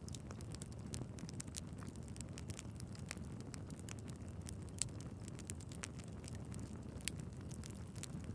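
Wood fire burning in a fireplace: irregular crackles and sharp pops over a steady low rumble of the flames, with two louder pops about five and seven seconds in.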